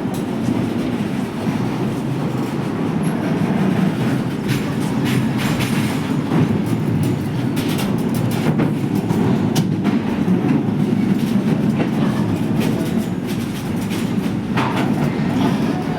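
A train running on the track: a steady low rumble, with sharp clacks of the wheels over rail joints at irregular intervals.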